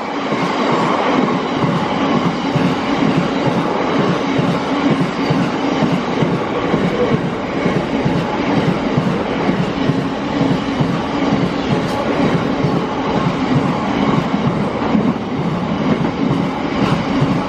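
Long freight train of biomass hopper wagons rolling past on the rails, the wheels beating in a steady, repeating rhythm over a continuous rumble, hauled by Class 60 and Class 66 diesel-electric locomotives.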